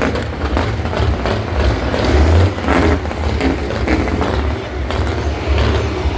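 Heavy truck engine running while driving, a deep steady drone that swells briefly about two seconds in.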